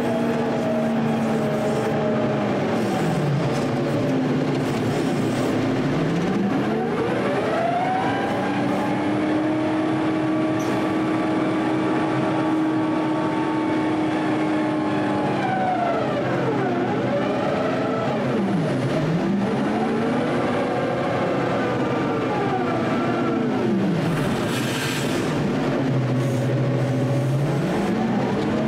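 Diesel engine of a front-end loader working, its revs dropping and climbing again several times, with a long steady high-rev stretch in the middle.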